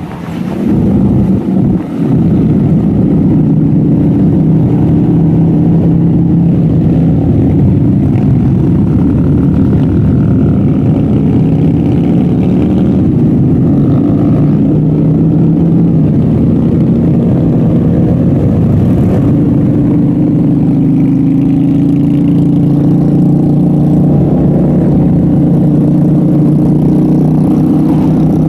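Motorcycle engine running under way, its pitch holding fairly steady and shifting a few times as the throttle changes.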